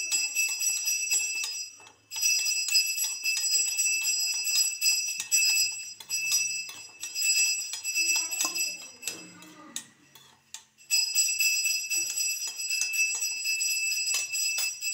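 Cashews frying in hot ghee in a small iron kadai, sizzling and crackling, with spoon stirring. Over it runs a steady high-pitched ringing tone that drops out briefly about two seconds in and again for several seconds in the middle.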